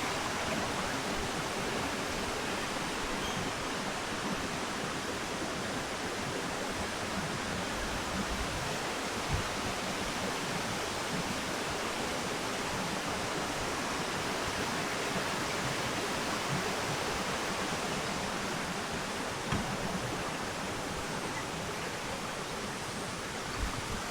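Spring-fed stream rushing steadily, an even, unbroken wash of running water.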